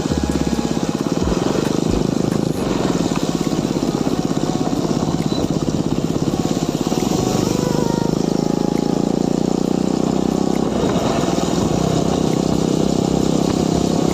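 Motorcycle engine running steadily at cruising speed, its exhaust pulsing evenly.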